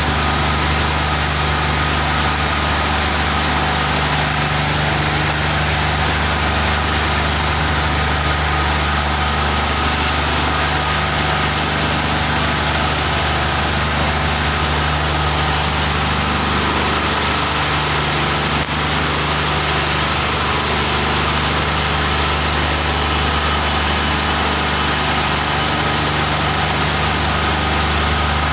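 Train washing plant at work with a train: a steady low machine hum under a constant rushing hiss, unchanging throughout.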